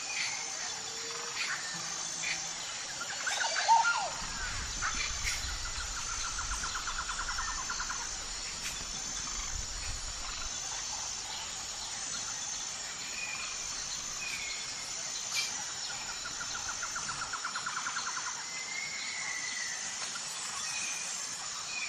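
Outdoor bird and insect chorus: several birds give short whistled calls and two rapid trills of a couple of seconds each, over a steady high insect buzz with evenly pulsing chirps.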